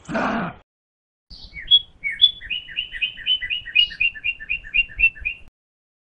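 A short low animal call at the start, then a male northern cardinal singing: a few opening notes, then a fast run of repeated two-note phrases, about four a second, that stops shortly before the end.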